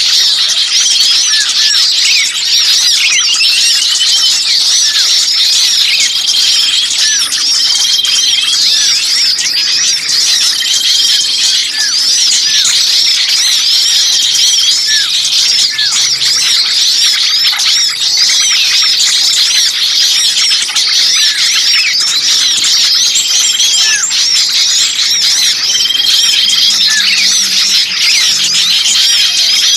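Dense, continuous chattering of many small birds calling at once, rapid high chirps with short repeated notes woven through: a noisy mixed small-bird lure recording (suara pikat burung kecil ribut) played to draw birds in.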